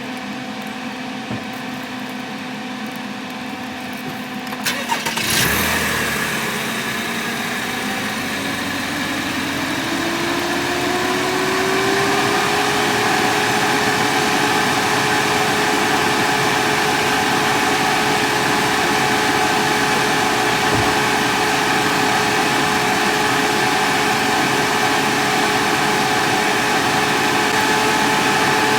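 2017 Chevrolet Camaro engine cranked and started about five seconds in, after a steady hum. It then runs with a tone that climbs in pitch for several seconds and holds steady. The car's cooling fans run constantly and its temperature gauge reads zero, which the owner suspects is the thermostat, low coolant or a sensor.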